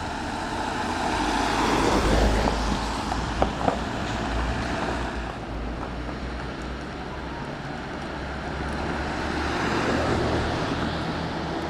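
Road vehicles driving past, the noise swelling about two seconds in and again near the end, under a steady low rumble. Two short knocks sound about three and a half seconds in.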